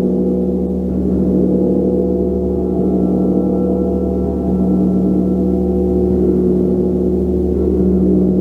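Gong played continuously with soft strokes: a dense, sustained low wash of overlapping tones that swells gently about halfway through and again near the end.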